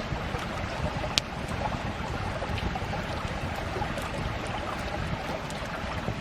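Wood campfire crackling steadily with scattered small pops and one sharp pop about a second in.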